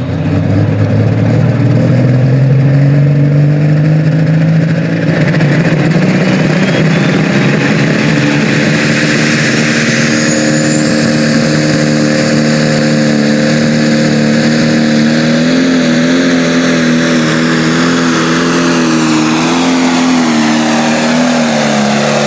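Pro Stock pulling tractor's Cyclone Machine Shop engine at full power under load on a pull: the pitch climbs over the first few seconds as it launches, then holds high and steady with slight wavering, dipping near the end.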